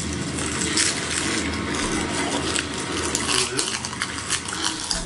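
Crisp roasted seaweed (gim) being chewed close to the microphone: a continuous crunching made of many small crackles.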